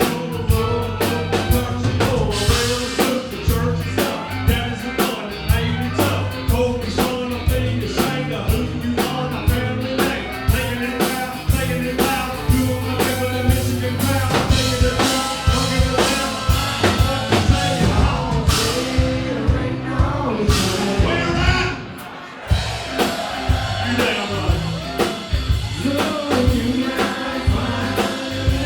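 Live band playing a loud country-rock song with a steady drum beat, guitars and vocals, dropping out briefly about 22 seconds in before the full band comes back.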